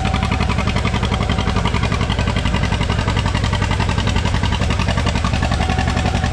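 John Deere A's two-cylinder engine under heavy load, pulling the sled in its creeper gear. It runs as a steady, rapid, even pulsing beat that holds the same engine speed throughout.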